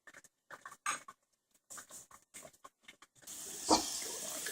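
Faint small clicks and smacks of someone chewing fried dough. About three seconds in, deep-fryer oil starts a steady hiss of sizzling, with one sharper click soon after.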